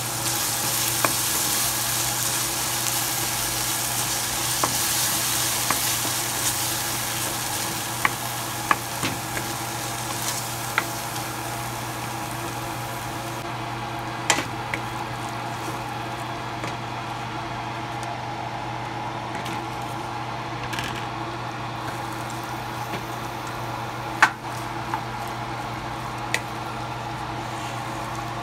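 Minced mutton (qeema) sizzling as it fries in a pan, stirred with a wooden spoon that clicks and knocks against the pan now and then. The sizzle falls away about halfway through, leaving quieter stirring and scraping.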